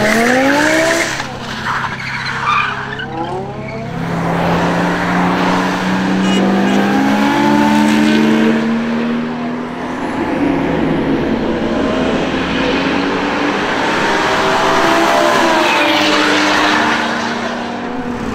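BMW M5 E60's 5.0-litre V10 revving and accelerating hard through the gears, its pitch climbing and dropping back at each shift.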